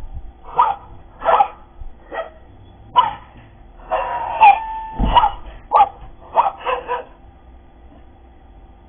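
Dog barking sharply in a run of about ten barks, spaced under a second apart, with a low thump about five seconds in; the barking stops about seven seconds in.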